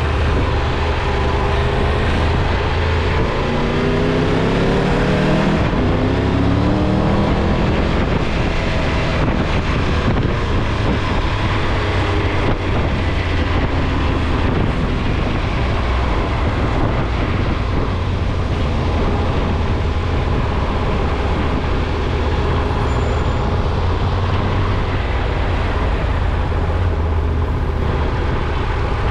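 Car driving, with a steady low engine hum and road noise. A few seconds in, the engine's pitch rises as the car speeds up, then settles back into a steady run.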